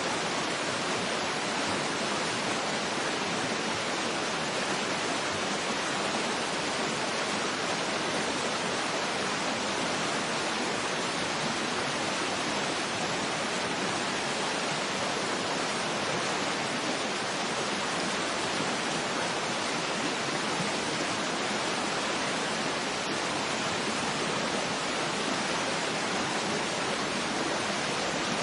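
Waterfall ambience: a steady, even rush of falling water with no changes or distinct splashes.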